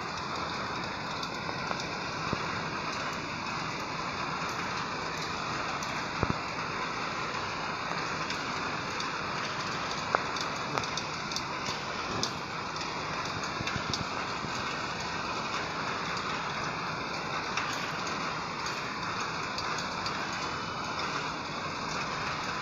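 Steady rain hiss, with sharp taps of single drops striking close by now and then, a few of them louder, around six and ten seconds in.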